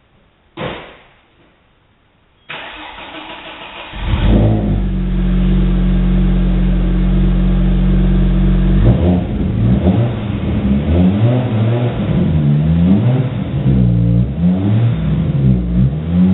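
A car door shuts with a thump. About two seconds later the starter of an Audi S4 with a Garrett GT30 turbo cranks, and the engine catches about four seconds in and runs at a steady high idle. From about nine seconds it is blipped repeatedly, the revs rising and falling.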